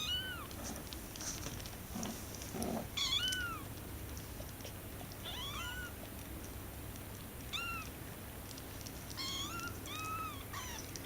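Young kittens mewing: about six short, high-pitched mews spread over the span, each rising then falling in pitch, with two coming close together near the end.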